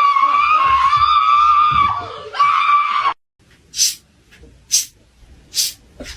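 A cat giving one long, drawn-out yowl that wavers slightly and cuts off after about three seconds. It is followed by short, breathy hissing puffs about once a second.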